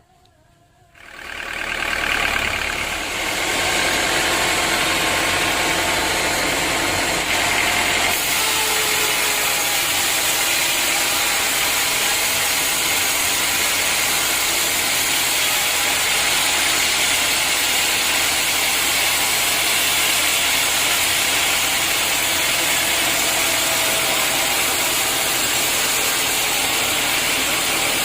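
Sawmill machinery starting up about a second in and then running steadily at a constant pitch.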